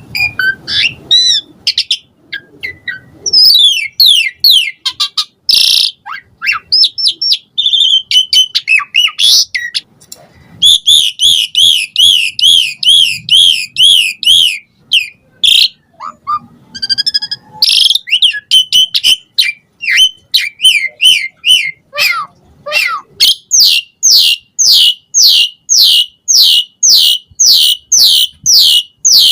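Asian pied starling singing a loud, varied song of whistles, chirps and fast trills, breaking near the end into a steady run of repeated falling whistles, about three a second.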